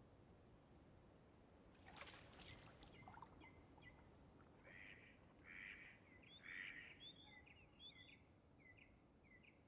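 Faint small birds chirping, short hooked calls repeated over quiet lakeside ambience, with a few faint clicks about two seconds in.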